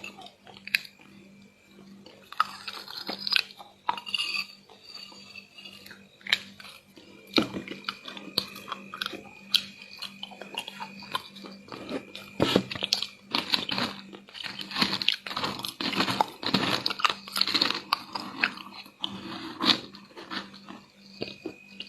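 Chewing and crunching of crispy chocolate chunks in chocolate paste: irregular crisp crunches, sparse at first, then denser and louder in the second half.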